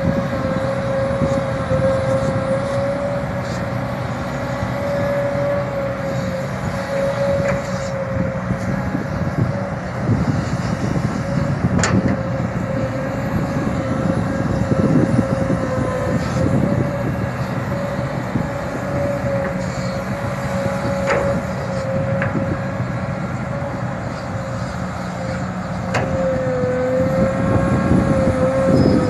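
Kobelco SK140LC hydraulic excavator digging and loading soil, its engine running steadily under a constant high whine, with a few sharp clanks.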